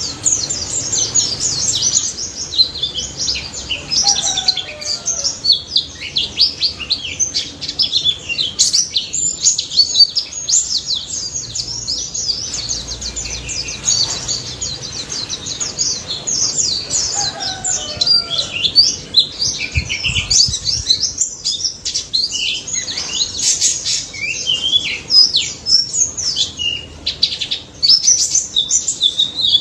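White-eye (pleci) singing continuously in a dense, rapid run of high-pitched twittering chirps.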